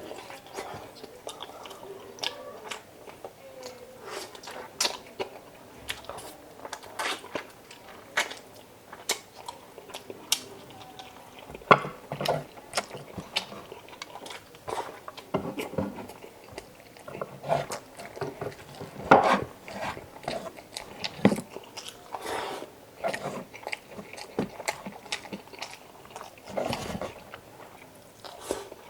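Close-up eating sounds: biting and chewing chicken adobo, with wet smacks and short, sharp clicks at irregular intervals and a few louder bites around the middle.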